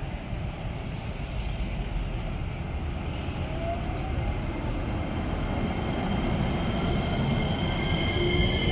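Train running through a station, a steady rumble growing gradually louder, with thin high-pitched wheel squeal setting in over the second half.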